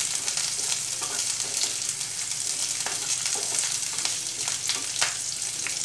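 Sliced onion, green chillies and garlic sizzling steadily in hot oil in a non-stick pan while being stirred. A wooden spatula scrapes and clicks against the pan a few times.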